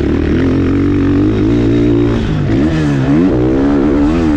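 2022 KTM 450SX-F's 450cc single-cylinder four-stroke engine revving under a rider. Its pitch holds steady at first, then drops and climbs sharply several times in the second half as the throttle is rolled off and on.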